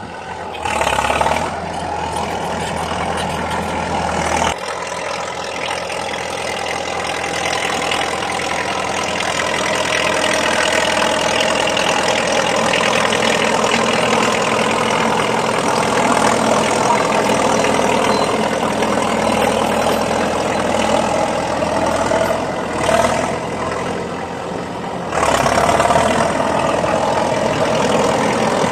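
Heavy diesel engine running steadily. Its deep low rumble drops away about four seconds in and comes back briefly near the end.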